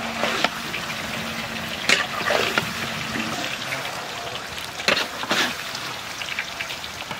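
Chicken pieces and spice paste sizzling in a large kadai as a metal spatula stirs them, with four sharp scrapes and knocks of the spatula against the pan.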